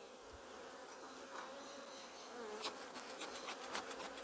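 Honeybees buzzing steadily around an open hive. About two-thirds of the way in, a quick run of light clicks and scrapes starts.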